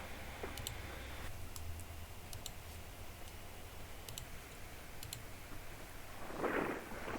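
Faint sharp clicks, several of them in quick pairs, over a low steady hum, with a short rush of noise near the end.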